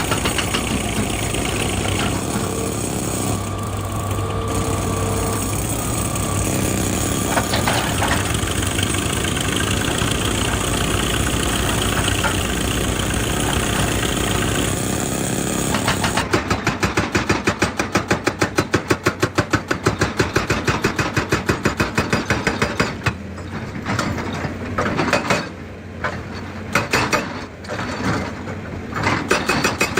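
Excavator's diesel engine running steadily; about halfway through a rapid, even hammering starts, several blows a second, and near the end it turns into broken, irregular bursts.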